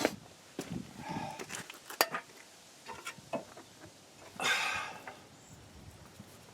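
Sharp metallic clicks and knocks from hand tools and brake parts being handled, loudest at the start and about two seconds in, with a short hiss about four and a half seconds in.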